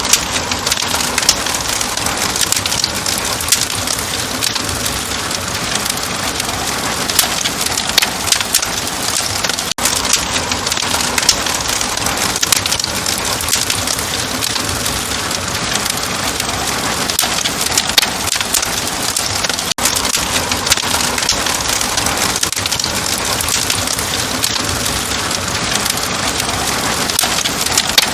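Open wood fire crackling steadily, with a constant hiss and frequent sharp pops and snaps.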